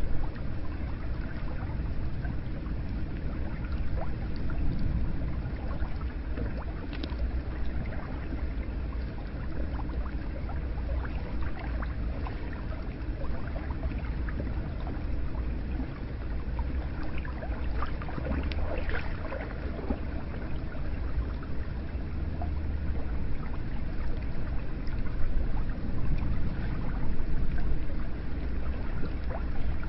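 Hot spring water flowing and splashing into a bath: a steady rush of water with small scattered splashes.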